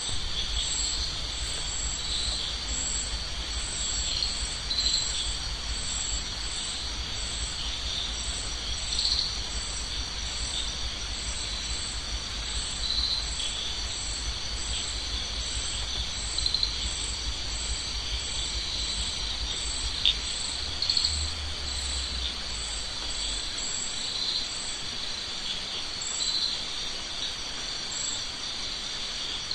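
Insects, likely crickets, chirping in a steady chorus, with a higher chirp repeating evenly about once or twice a second. A low rumble underneath stops about 23 seconds in.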